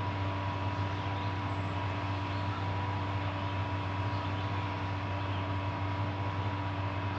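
Steady drone of a vehicle on the road, heard from inside the cabin: a low engine and road hum with a few faint steady tones above it.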